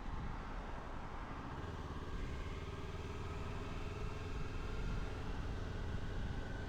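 Kawasaki Ninja 400's parallel-twin engine running steadily under way, with wind noise.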